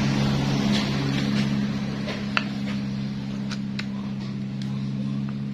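Scattered light metallic clicks from a motorcycle engine's gearbox being shifted through its gears by hand to test it, over a steady low hum.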